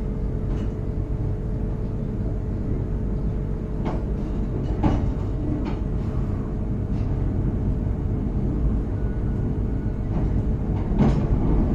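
Passenger train carriage rumbling along the track, with a steady hum underneath and a few sharp knocks, about four and five seconds in and again near the end.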